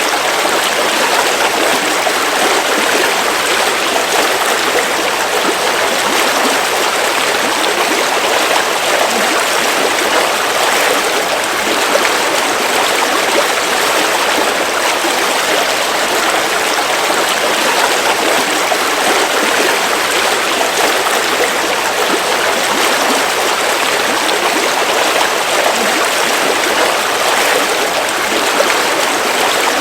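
River water flowing, a steady, even rush of water with no change in level.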